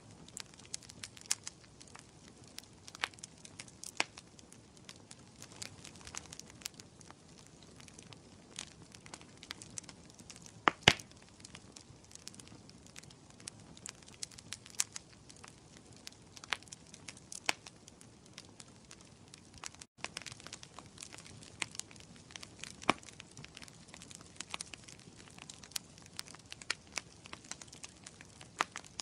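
Wood fire in a fireplace crackling: a steady run of irregular sharp pops and snaps over a soft hiss, with one louder pop about a third of the way in. A split-second dropout comes about two-thirds of the way through.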